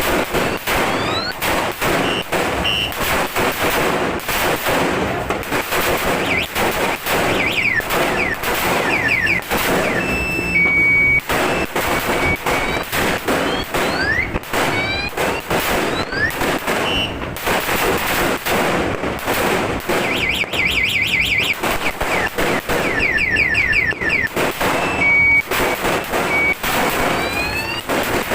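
A long belt of firecrackers going off in a rapid, unbroken string of bangs. A car alarm sounds over it, cycling through rising chirps and steady beeps.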